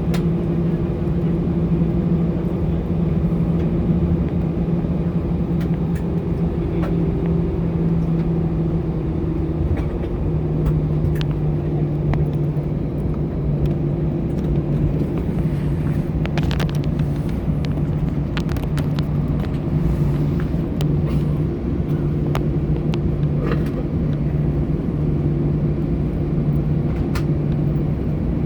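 Cabin noise inside an Airbus A320 taxiing: a steady low hum and rumble from the idling engines and the rolling aircraft, which drops slightly in pitch about ten seconds in, with scattered light clicks and rattles.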